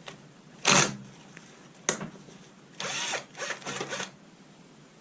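Handheld power drill run in short bursts, undoing the bolts of the battery module's main leads. The loudest burst comes just under a second in, a sharp click follows near two seconds, then a few shorter runs close together.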